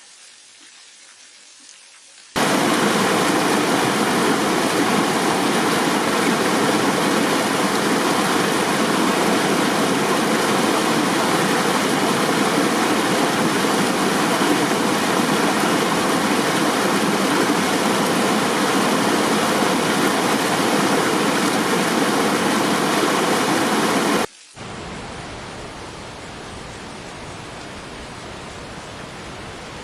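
Steady rushing roar of a waterfall's falling water, starting abruptly after a couple of seconds of near quiet, holding loud and even for about twenty seconds, then cutting off suddenly to a softer, steady rush.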